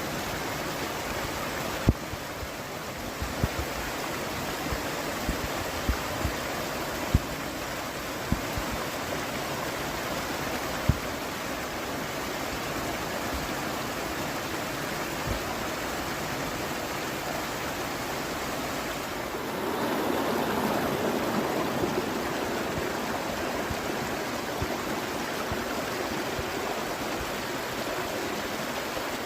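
Mountain river water rushing in a steady wash. A few short knocks sound in the first ten seconds or so, and the rush grows fuller and louder about two-thirds of the way in.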